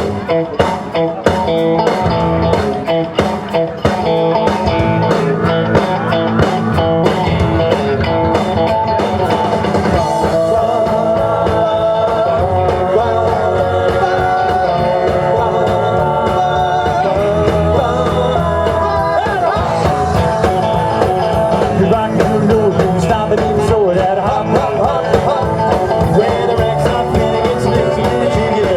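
Live rock-and-roll band playing an oldies cover, with electric guitar and singing.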